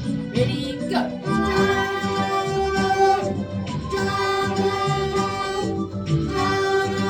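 Violins playing long held notes of a beginner piece on the D string, with a quick rising slide about a second in, over a rhythmic recorded accompaniment with guitar.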